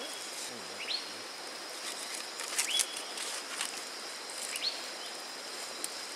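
A bird calling over and over, each call a short whistle that sweeps up and then levels off, about every two seconds, over a steady high hum and an even forest background noise.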